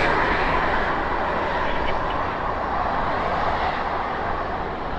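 Jet airliner engine noise, a loud steady rush that slowly fades.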